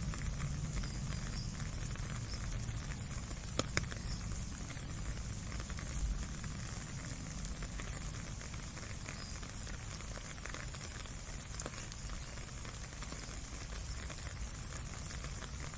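Light rain falling steadily on a puddle and wet ground, a dense patter of small drops with two sharper drip ticks a little under four seconds in.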